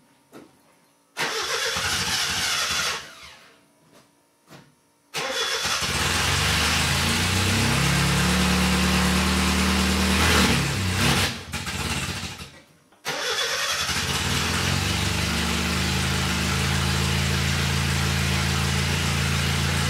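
A 1976 Chevy LUV's four-cylinder engine being started on a new Pertronix electronic ignition. It cranks briefly and dies, catches about five seconds in and runs with a rev, stumbles out near twelve seconds, then is restarted and settles into a steady idle. The ignition timing turns out to be well retarded.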